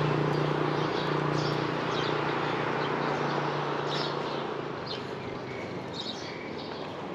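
A motor vehicle's engine hum fading away as it moves off, with short bird chirps scattered throughout.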